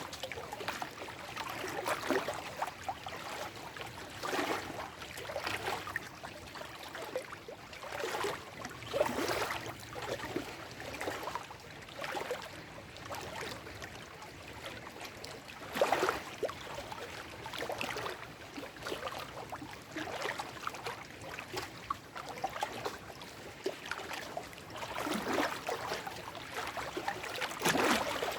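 Small lake waves lapping and splashing over shoreline rocks, in irregular washes every second or two, with louder splashes about 9 s in, around 16 s in and near the end.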